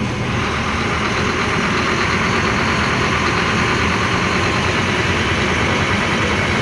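Bus diesel engine running steadily with a low rumble, overlaid by a rushing hiss that swells a moment in and then holds.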